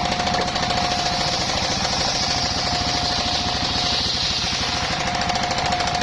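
Engine-driven circular sawmill running, its engine pulsing rapidly under a steady high whine from the spinning blade. From about a second and a half in to about five seconds a hiss swells as the blade cuts through the wood, and the whine dips meanwhile.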